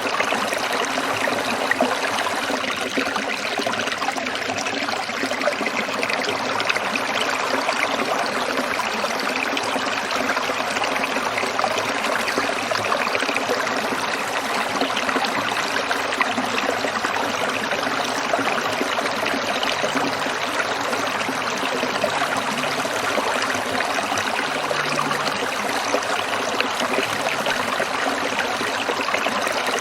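Small stream trickling and splashing over stones, a steady unbroken water sound.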